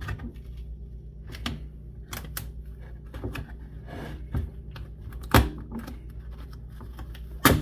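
Skateboard griptape being peeled off the deck by hand, the adhesive letting go in irregular crackles and clicks, with two louder snaps about two seconds apart in the second half.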